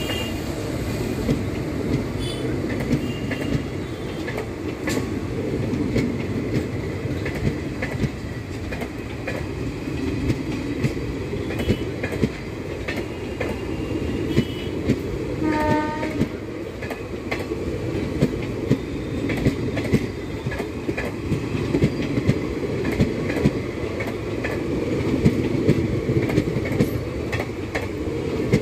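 Indian Railways express coaches and parcel vans rolling past at speed: a steady rumble with wheels clacking over rail joints in repeated beats. A short horn blast sounds about halfway through.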